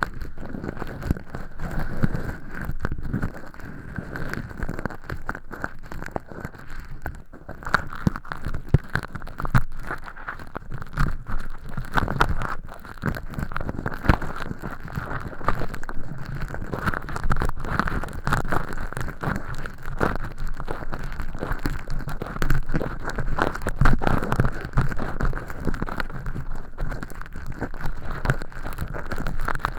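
Earpick scraping inside a silicone ear model, peeling flakes of thin-skin fake earwax: a steady run of dense crackling and scratching.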